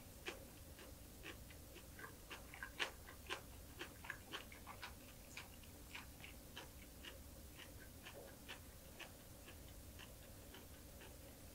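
Close-miked chewing of a mouthful of small dried anchovies: faint, irregular little clicks, several a second at first and thinning out in the second half.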